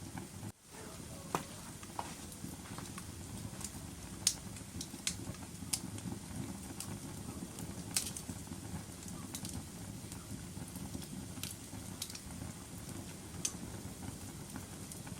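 Wood fire burning in a fireplace: a steady low rumble of flames with irregular sharp crackles and pops, the loudest about four and eight seconds in. The sound drops out briefly about half a second in.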